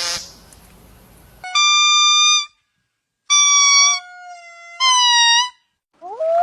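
A hissy burst, then a series of short, clear pitched notes of about a second each, separated by abrupt cuts to silence, ending with notes that glide upward.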